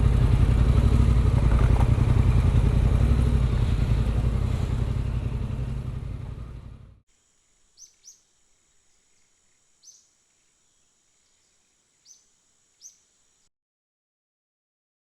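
Adventure motorcycle running at speed with its engine and wind rush, fading out about seven seconds in. After it, a few short, faint rising bird chirps over a thin steady high whine.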